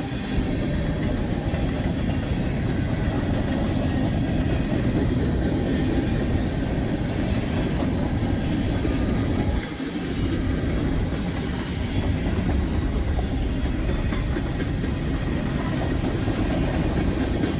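Freight train of tank cars rolling past, a steady rumble of wheels on the rails that dips briefly a little under halfway through.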